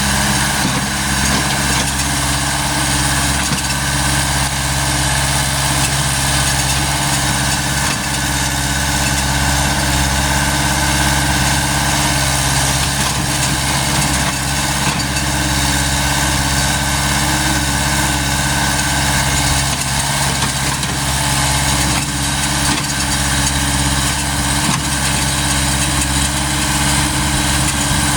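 Cat 120P excavator's diesel engine running at a steady speed, unchanging throughout.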